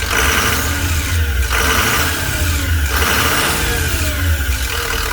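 2005 6.0L Power Stroke V8 turbo diesel idling, running smoothly.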